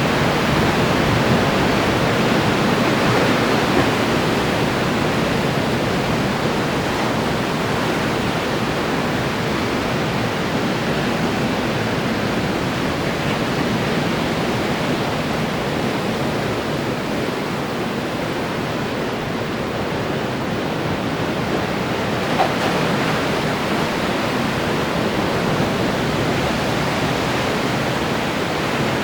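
Ocean surf breaking on the shore, a steady rushing wash of waves, a little stronger in the first few seconds.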